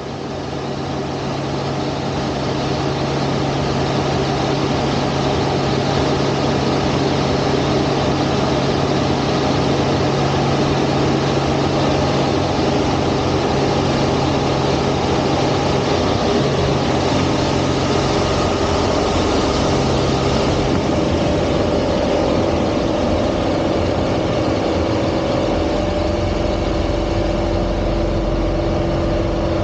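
Single-engine aerobatic airplane's piston engine running steadily, its note shifting slightly about halfway through.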